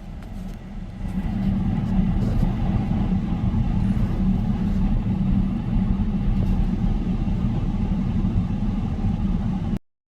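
Steady low rumble of a vehicle engine running, building over the first second or so and cutting off abruptly near the end.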